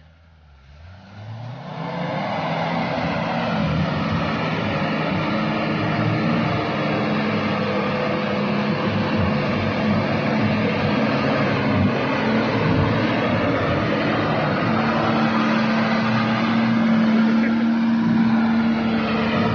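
Nissan Patrol 4x4's engine running under load as it drives through deep mud in two-wheel drive. The sound builds over the first two seconds, then holds steady.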